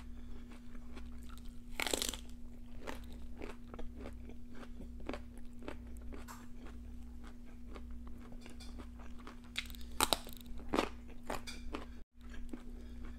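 Close-miked chewing of raw broccoli florets: a run of crisp crunches, biggest about two seconds in and again around ten seconds. A faint steady hum sits underneath.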